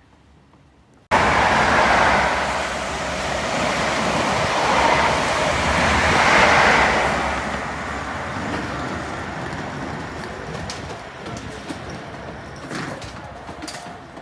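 A train passing close by: a loud, even rush of noise that starts abruptly about a second in, peaks a few seconds later and slowly fades, with a few sharp clicks near the end.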